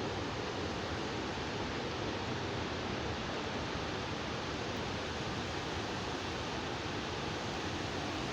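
Steady hiss of wind-driven rain from a hurricane rain band.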